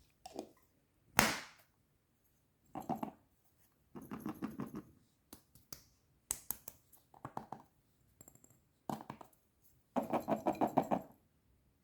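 Wood fire crackling in short bursts of rapid crackles and sharp pops, with quiet gaps between them; the sharpest crack comes about a second in.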